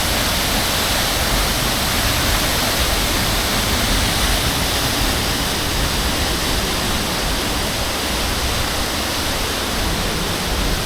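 Waterfall in heavy flow after a day of rain, a steady loud rush of falling water.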